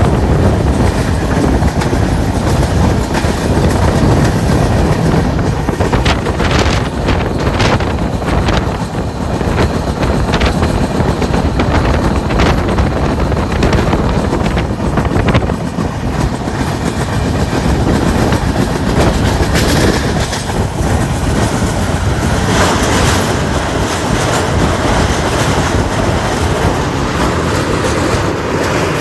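LHB railway coach running at high speed, about 130 km/h: a continuous heavy rumble of wheels on rail, with a run of sharp clickety-clack knocks from the wheels a few seconds in.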